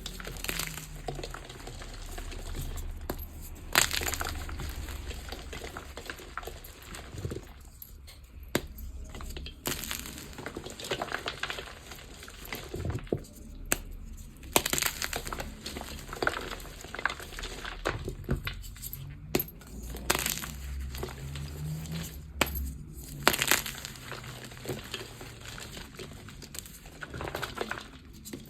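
Gym chalk being crunched and crumbled by hand, an irregular run of sharp crackles and crunches.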